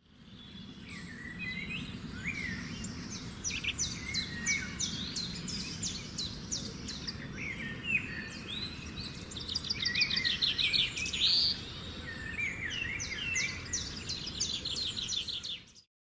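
Several small birds chirping and trilling, with quick repeated notes and short sweeping calls, over a low steady outdoor rumble. It fades in over the first couple of seconds and fades out near the end.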